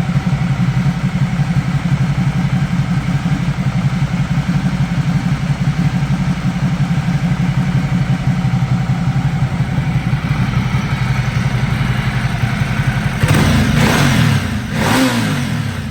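Ducati Multistrada 1200's L-twin engine idling steadily, then blipped twice near the end, the revs rising and falling quickly each time.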